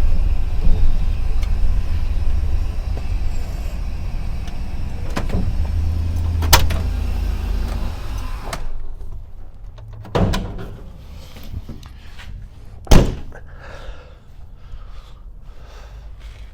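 LS V8-swapped van's engine running with a low rumble for about eight seconds as the van is brought in, then shut off. Van doors then clunk a few times, with a loud slam about thirteen seconds in.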